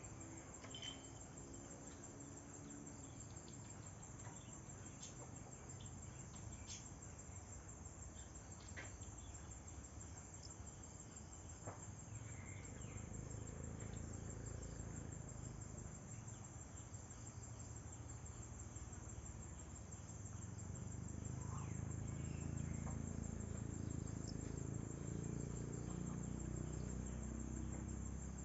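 Steady high-pitched chorus of crickets, with a few faint bird chirps and ticks. A low rumble swells in the last third.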